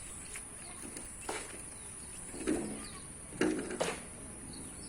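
A pigeon cooing, two low, short coos a little past the middle, among several sharp clicks or taps.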